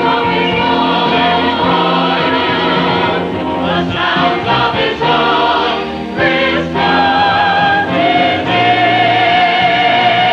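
Church chancel choir singing a sacred choral work, with a long held note that wavers in pitch from about eight seconds in.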